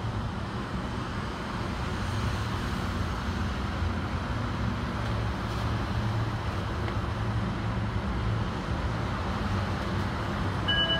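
Steady low rumble and hum of an approaching MRT train, still far down the elevated track, growing slightly louder. A chime of steady tones starts near the end.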